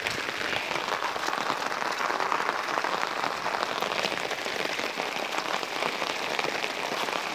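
Heavy rain falling steadily, a dense even patter of drops on the ground and surfaces.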